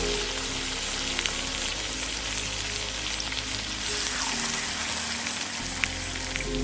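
Food frying in a pan over a camp stove: a steady sizzle with scattered crackles, which gets louder about four seconds in. Faint ambient music plays underneath.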